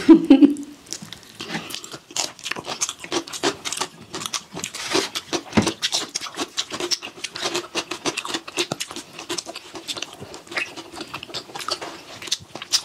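Chewing and wet mouth sounds of two people eating fried rice and vegetables by hand: a steady run of small clicks and smacks, with a crunchy bite of cucumber among them.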